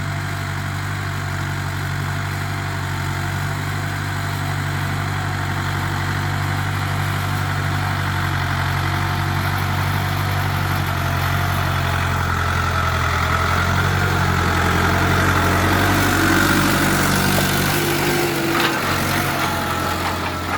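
Tractor engine running steadily at a constant speed, slowly growing louder through most of the stretch and easing off near the end.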